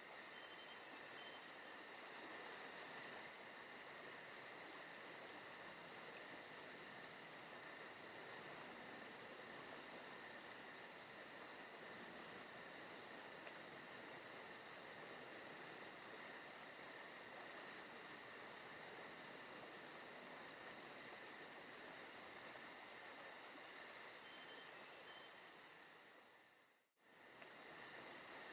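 Forest ambience of a steady insect chorus, with a fast, even high chirping over a soft hiss. Near the end it fades away almost to nothing for a moment and comes straight back.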